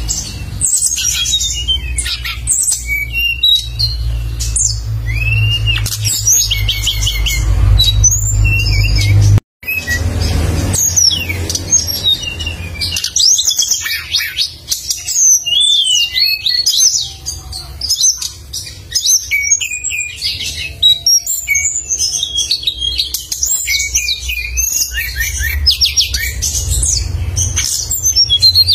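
A songbird singing non-stop in rapid, sharp, high chirps and short whistled glides. A steady low hum runs underneath, strongest in the first third, and there is a brief silent break about a third of the way through.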